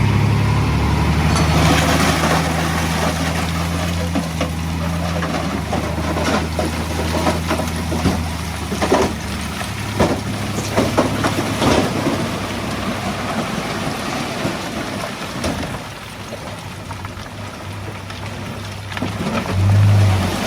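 Diesel engine of heavy earthmoving equipment running, loudest for the first several seconds and then fading away, with a few sharp clanks around the middle.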